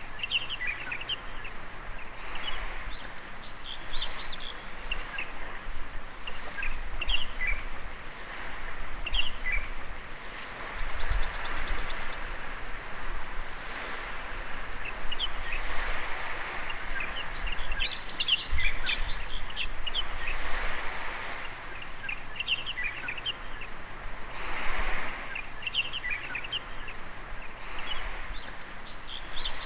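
Small waves washing onto a sandy beach, swelling and falling back every several seconds. Over them, birds call throughout in quick, short chirping phrases.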